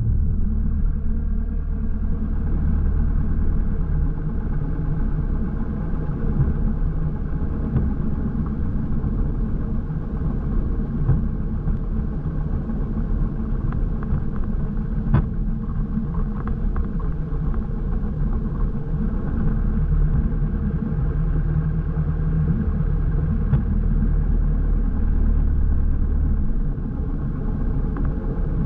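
Light airplane's piston engine running steadily, a low drone heard from inside the cockpit, easing slightly near the end.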